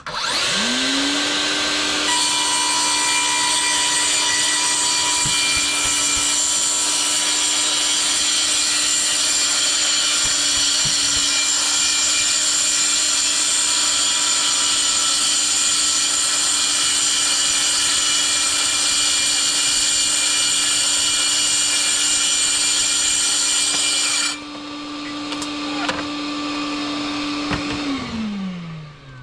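DeWalt FlexVolt track saw (DCS520) cutting wood while the Bluetooth-paired DeWalt FlexVolt dust extractor runs with it. The saw stops about 24 seconds in. The extractor runs on for a few seconds, then winds down near the end.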